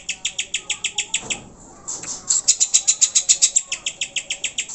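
Cucak hijau (green leafbird) lure call: a fast, even rattle of sharp high chirps, about nine a second, with a brief pause about a second and a half in before it starts again.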